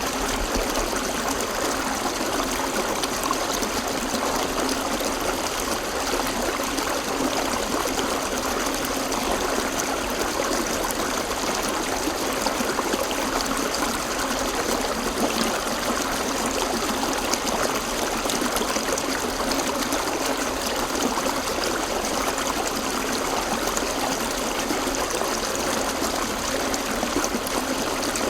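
A river flowing over rocks, a steady rushing and trickling of water.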